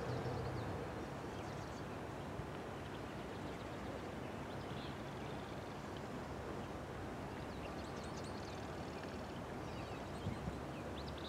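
Diesel locomotives of an approaching coal train, a steady low drone heard from far off. A few short bird chirps come through now and then.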